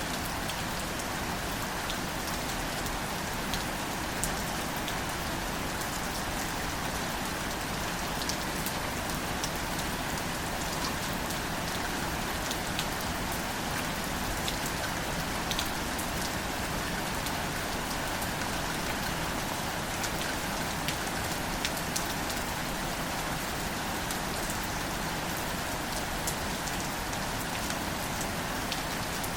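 Steady light rain falling on plants and leaves, an even hiss with scattered individual drops ticking close by.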